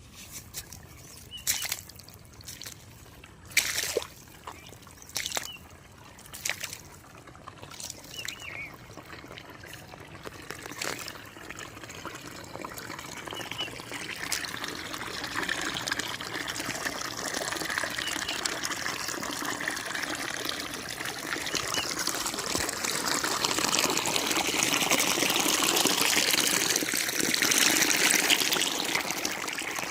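Irrigation water trickling and pouring into an onion field that has just been top-dressed with urea, growing steadily louder through the second half. A few sharp knocks or crunches sound in the first several seconds.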